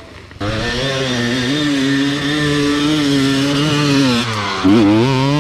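Dirt bike engine running at steady high revs, cutting in abruptly about half a second in; the pitch dips briefly near the end and climbs back.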